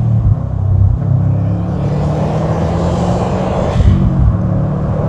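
Subaru STI's 2.5-litre boxer engine, tuned to 400 horsepower, running under way with a deep, steady exhaust note, over road noise.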